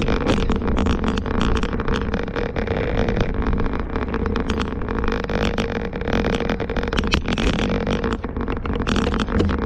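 Strong wind and rain on the microphone of a bicycle-mounted camera while riding: a steady rushing noise with many small ticks and a steady hum.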